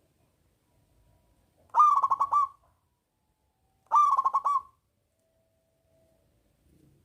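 Zebra dove (perkutut) singing: two quick cooing phrases about two seconds apart, each a run of five or six rapid notes.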